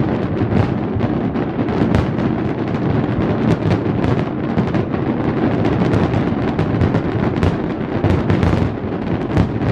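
Fireworks display going off continuously: a dense stream of sharp bangs and crackles over a steady rumble, with no pause.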